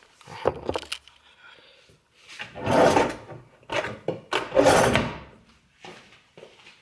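A protein drink being mixed: a few handling clicks and knocks, then two loud, noisy bursts about a second long each.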